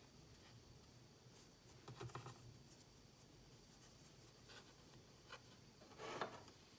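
Near silence in a small room, broken by a few short, soft scratching or rustling sounds of something being handled, the loudest near the end.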